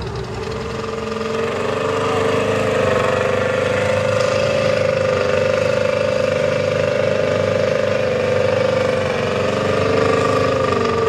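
A mega truck's engine held at high revs: it climbs in pitch over the first couple of seconds, holds high and steady, then drops away near the end.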